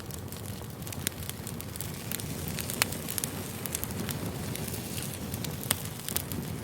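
Campfire crackling: a steady low rush of burning wood with scattered sharp pops, the loudest about three seconds in and again near the end.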